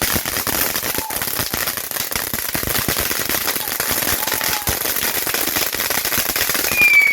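Fireworks crackling: a dense, continuous rapid run of small pops and cracks. Near the end a loud, high, steady whistle begins.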